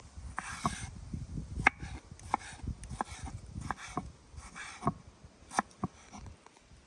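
Scattered sharp clicks and knocks, a dozen or so at uneven intervals, with short rustling scrapes in between, over a low rumble.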